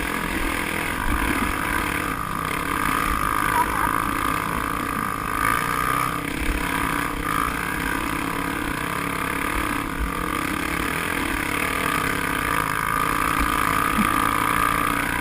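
A vehicle engine running steadily, heard onboard with low wind rumble on the microphone.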